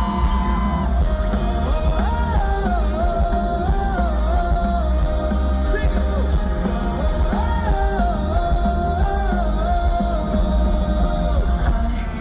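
Live rock band playing, with one melody line of held and stepping notes over heavy bass and drums.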